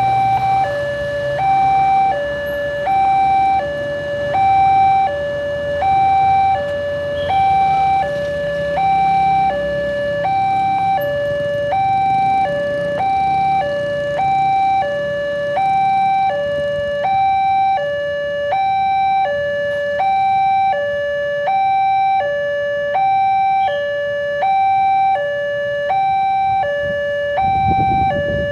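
Level-crossing warning alarm sounding a steady two-tone signal, alternating between a higher and a lower tone about once a second, which means the barrier is down and a train is due. A low rumble runs beneath it, and a louder low rumble comes in near the end.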